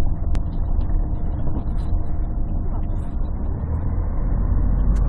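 Cabin sound of a 1998 Scania CN113CLL city bus under way: its Scania DSC11 diesel and Voith D863 automatic gearbox running with a steady rumble. It is heard muffled and bass-heavy through a partly covered smartphone microphone.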